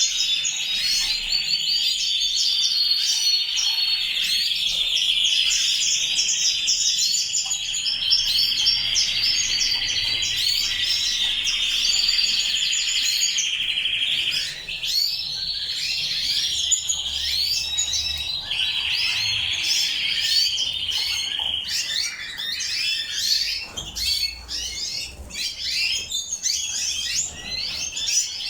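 Colour canaries singing, with continuous rolling trills and warbles overlapping. After about halfway the song breaks into shorter, choppier phrases and chirps.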